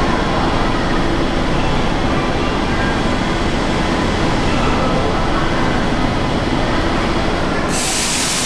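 Commuter train running through an underground metro station, a steady rumble of wheels on rail and motors. Near the end comes a sudden loud hiss of air from the train's pneumatics.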